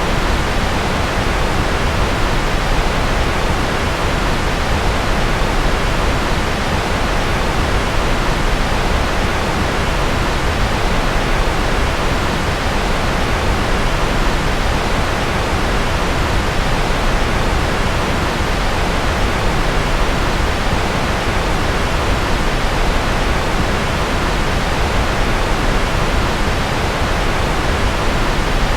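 Steady, unchanging rushing noise of a white-noise sleep track, strongest in the bass, with no tones or clicks.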